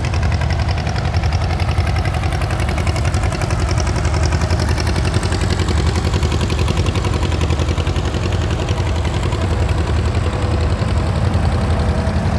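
Vintage tractor engine running steadily at low speed, with a fast, even firing beat.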